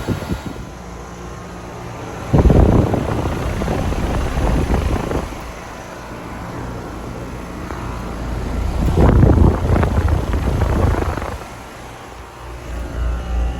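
Outdoor air conditioner or heat pump unit running: a steady compressor hum under the rush of its condenser fan. A loud rushing air noise swells about two seconds in and again about nine seconds in.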